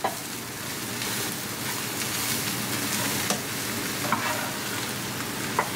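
Brussels sprouts and paneer cubes sizzling in oil in a nonstick sauté pan as they are stirred with a slotted turner, with a few light clicks of the turner against the pan.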